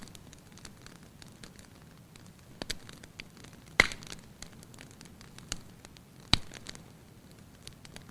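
Fire in a fireplace crackling over a low steady hiss, with scattered sharp pops; the loudest pop comes about four seconds in and another near six seconds.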